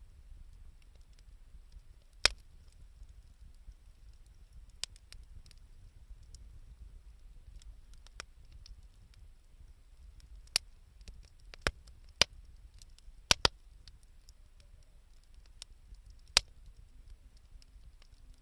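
Wood fire of scrap timber and reused 2×4 lumber crackling, with sharp, irregular pops and snaps, about eight of them loud, over a faint low rumble.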